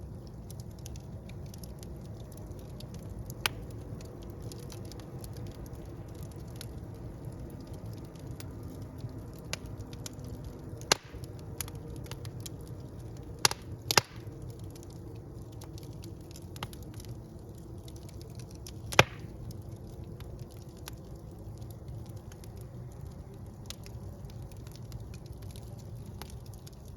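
Wood fire burning in a fireplace: a steady low rumble of the flames with scattered small crackles and a few sharp, louder pops, a pair close together about halfway through and another a little later.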